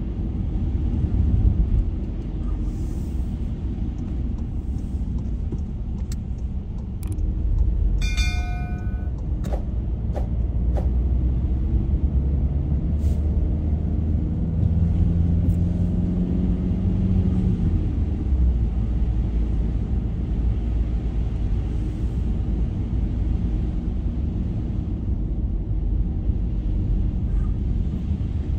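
Car driving on a snowy road: a steady low rumble of engine and tyre noise. A brief high electronic tone comes about eight seconds in.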